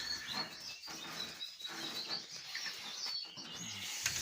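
Caged finches and canaries chirping, short high calls scattered through.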